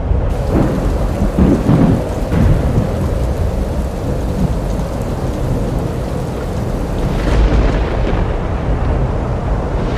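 Thunderstorm sound effect: steady rain with thunder rumbling, loudest about a second and a half in and swelling again near the end.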